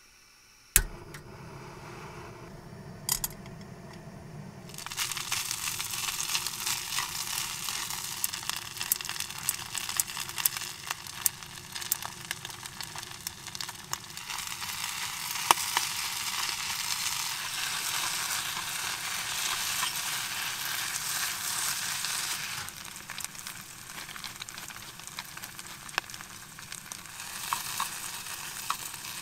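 Kimchi fried rice frying in a stainless frying pan on a small gas burner, sizzling and crackling steadily as it is stirred with chopsticks. A sharp click comes just under a second in and another about three seconds in, and the sizzle starts about five seconds in.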